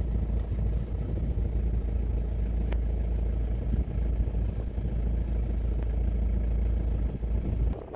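Motor vehicle running, a steady low rumble of engine and road noise heard from on board. It drops away suddenly near the end.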